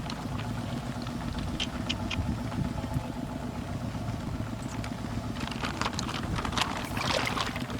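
Small boat engine running steadily with a low, even drone. Clusters of short, sharp noises come in over it between about five and seven and a half seconds in.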